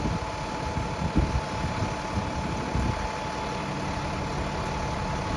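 Bus diesel engine idling steadily, a low rumble with a thin steady whine above it.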